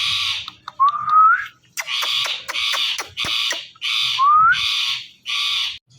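Indian ringneck parrot giving a run of harsh, raspy squawks, each about a third of a second long, with two short rising whistles among them.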